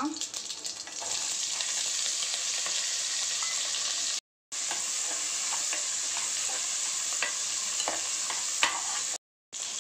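Small onions (shallots) and green chillies frying in hot oil with popped mustard seeds in a pressure pan: a steady sizzle that grows louder about a second in, with clicks and scrapes of a metal spoon stirring. The sizzle drops out briefly twice.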